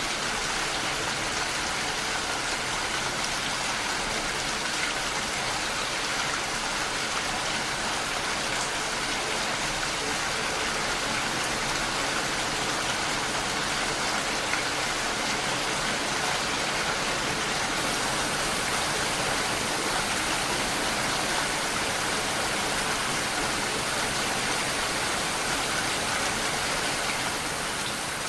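Steady rainfall, an even hiss with no distinct drops, growing slightly quieter near the end.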